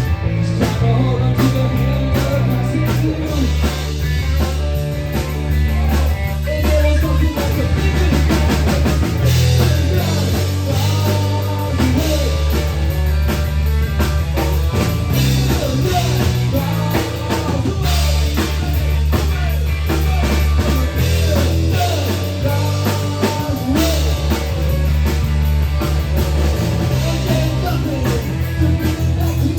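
Live rock band playing loudly: drum kit, electric guitar, bass and singing.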